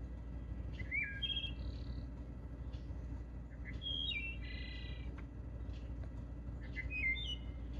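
A songbird singing short, swooping phrases three times, a few seconds apart, over a low steady rumble.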